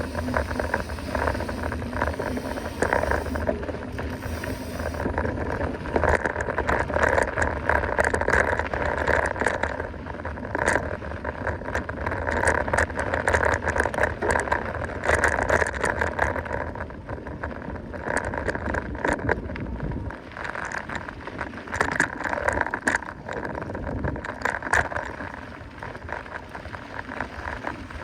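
Mountain bike descending a dirt trail at speed: tyres rolling over the ground with the bike rattling and clattering over bumps, a continuous rush of noise throughout.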